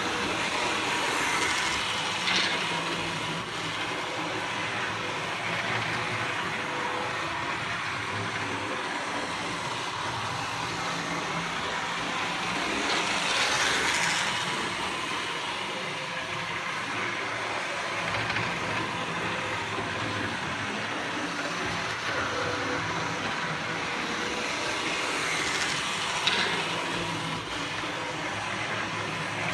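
Model train running on its track, a steady running noise with a faint whine. It swells about every twelve seconds, three times, as the train comes around closest.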